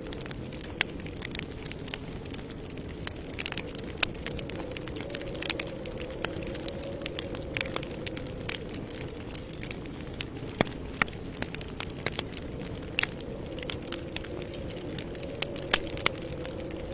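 Wood campfire burning: a steady low rush of flames with irregular sharp crackles and pops, a few louder snaps scattered through.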